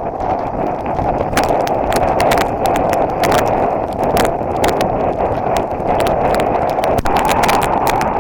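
Strong wind buffeting a body-worn camera's microphone, with the regular footfalls of a runner at running pace.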